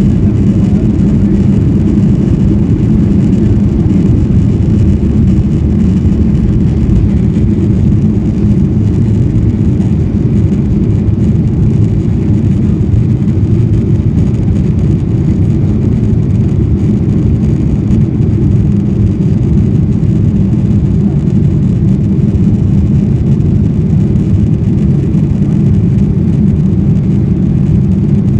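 Boeing 737-900ER's CFM56-7B turbofans at steady climb thrust with rushing airflow after takeoff, heard as a dense, even low rumble that does not change.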